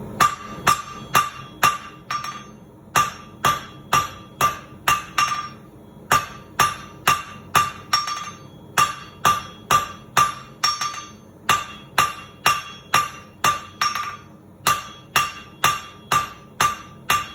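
Blacksmith's hammer striking hot steel on an anvil, about two to three blows a second in runs of several blows with short pauses between. Each blow has a clear ringing note.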